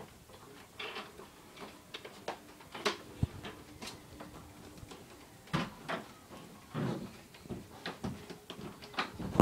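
Irregular light clicks and knocks, a few each second, with a sharper knock about three seconds in and louder ones around five and a half and seven seconds in.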